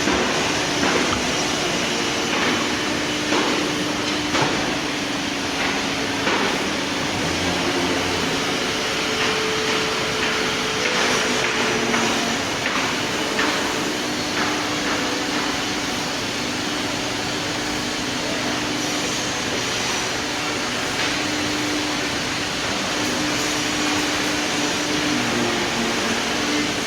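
Four-head CNC nesting router cutting wood panel: a steady spindle hum under dense cutting noise, with short knocks here and there.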